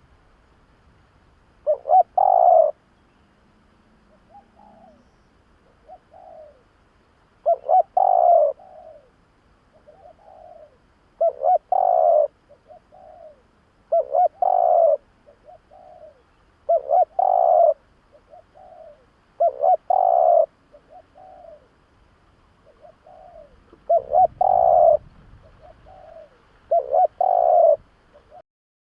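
Spotted dove cooing: a phrase repeated about every three seconds, each loud phrase followed by softer notes.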